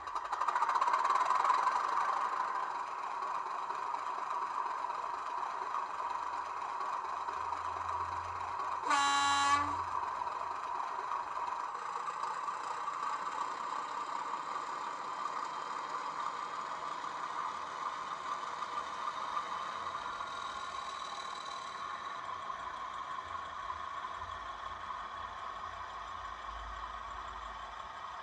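Sound-fitted 00 gauge Hornby Class 31 model locomotive's DCC sound decoder playing a steady diesel engine sound through its small onboard speaker, with one short horn blast about nine seconds in.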